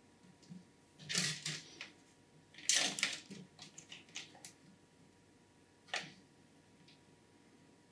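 Hands handling PC hardware while fitting an AIO liquid cooler: irregular clicks and rustling of plastic and metal parts. There is a cluster about a second in, a louder one near three seconds, a few lighter ticks after it, and one sharp click around six seconds.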